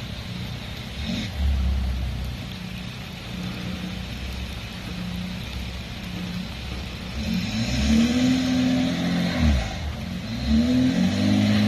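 Off-road vehicle engine running at low revs, with a knock about a second in, then revving up twice in the second half: each time the pitch climbs, holds for a couple of seconds and drops back.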